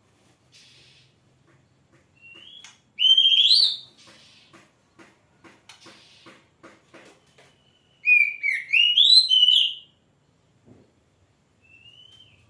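Oriental magpie-robin (kacer) singing: two loud bursts of rich, warbling whistled phrases, about three seconds in and again about eight seconds in, with soft short upslurred whistles and a run of quick clicks between them.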